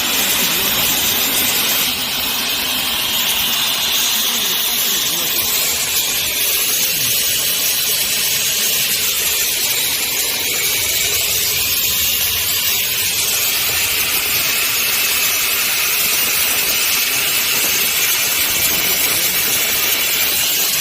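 CNC plasma cutting torch running, a loud steady hiss as it cuts steel plate.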